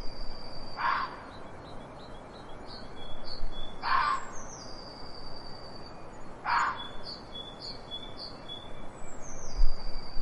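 Birds calling: thin, high whistled notes repeating throughout, several sliding downward, with three short, harsher, lower calls, one near the start, one about four seconds in and one past the middle, over a steady background hiss.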